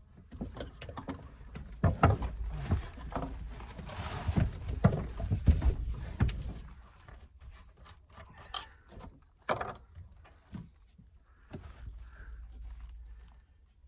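Irregular knocks, taps and rubbing of hands-on work with tools and materials, busiest and loudest in the first half and thinning out to scattered taps in the second half.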